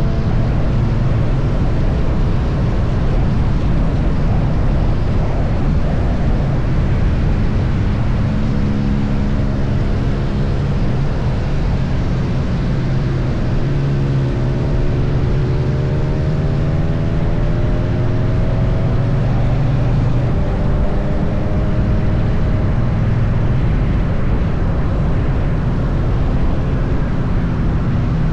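Triumph Bonneville T100 parallel-twin engine running at highway cruising speed, buried in heavy wind rush and low rumble. Its pitch climbs gently around the middle as the bike picks up speed.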